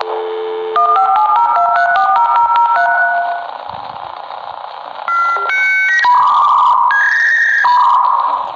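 Dial-up modem connecting over a phone line with a hiss behind it. A short dial tone, then a quick run of touch-tone dialing beeps, then after a brief pause the modem's handshake tones and harsh screeching start.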